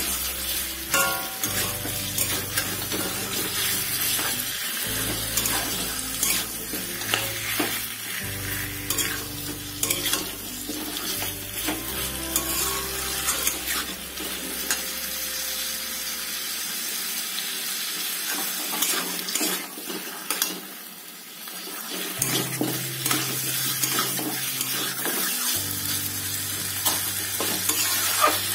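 Raw chicken pieces sizzling in hot oil with fried onion and ginger-garlic paste in an iron kadhai, a spatula stirring and scraping them around the pan. The sizzle eases for a moment about twenty seconds in, then picks up again.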